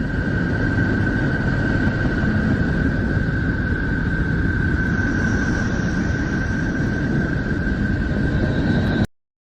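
Spacecraft plasma-wave and electromagnetic signals turned into audio: a steady low rumble with one high tone held throughout, and a fainter higher tone joining about halfway through.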